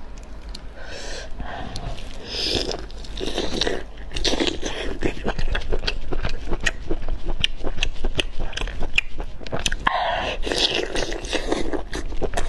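Close-miked biting and chewing of a spiral sausage: many quick crunches and wet clicks, thickening about four seconds in.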